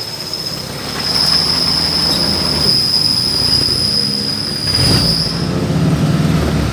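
An off-road 4x4's engine running, picking up revs about five seconds in, under a steady high-pitched whine that stops about five and a half seconds in.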